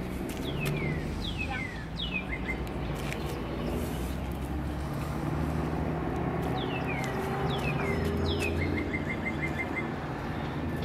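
A songbird singing clear whistled notes that fall in pitch, in two groups of three or four, then a quick run of short even notes near the end, over a low steady rumble of distant traffic.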